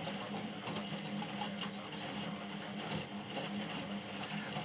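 Indesit IWUC 4105 washing machine running: a steady motor hum with a dense patter of small clicks and rattles over it.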